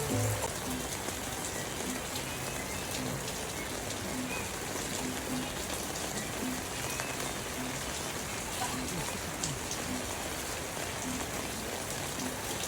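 Heavy rain falling steadily in a downpour, an even hiss of water on surfaces.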